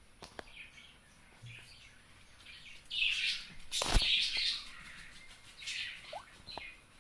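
Birds chirping in short bursts, busiest about three to four and a half seconds in and again near the end, with a sharp click about four seconds in.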